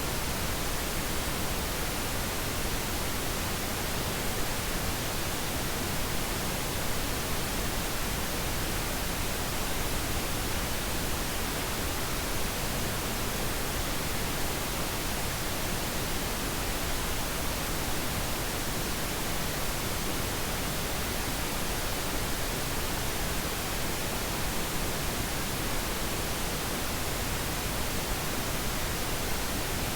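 Steady synthetic pink noise: an even, unchanging hiss spread across all pitches, with no tones or events.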